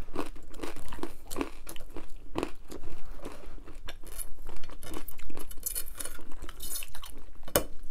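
Close-miked chewing and crunching of gluten-free pizza crust, a string of irregular crisp crunches with one sharper crack near the end.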